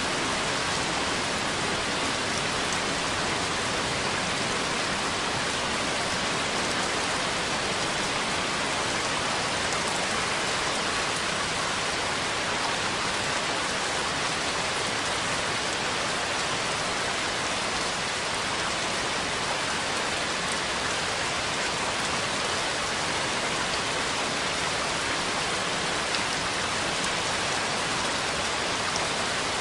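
Steady rain falling, an even, unbroken hiss of many drops on a surface.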